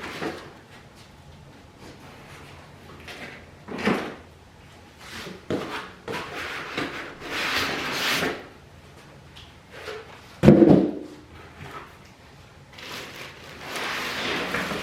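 Cardboard shipping box being unpacked by hand: scraping and rustling of cardboard and packing material, with one heavy thud about two-thirds of the way through as something is set down.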